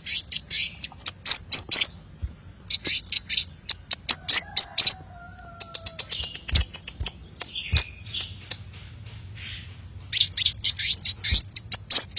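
Sunbird (the 'kolibri' of Indonesian bird keepers) calling: runs of rapid, sharp, high chirps, several a second, in three loud bursts with a sparser stretch of softer chirps in the middle.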